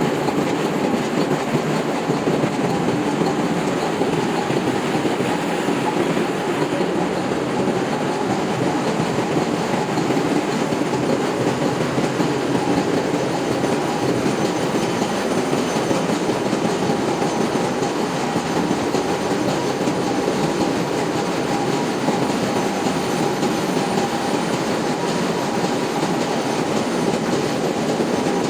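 Ship's engine-room machinery running: a loud, unbroken mechanical din with a faint steady whine.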